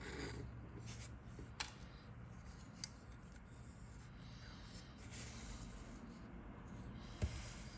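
Plastic model kit parts and packaging being handled: soft rustling with three sharp clicks, the loudest near the end.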